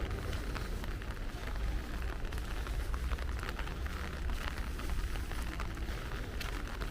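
Rain falling, with many small scattered drop ticks over a steady low rumble.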